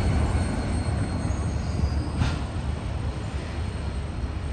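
Norfolk Southern intermodal freight train's cars rolling past with a steady low rumble that slowly gets quieter, and a single sharp click about two seconds in.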